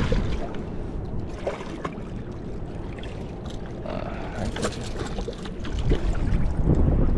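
Strong wind buffeting the microphone as a steady low rumble that swells again near the end, with scattered small knocks and splashes on the water.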